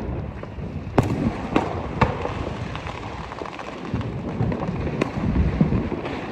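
Fireworks going off: several sharp bangs, the loudest about a second in, with more shortly after and another near five seconds, over a continuous rumble and crackle of other fireworks.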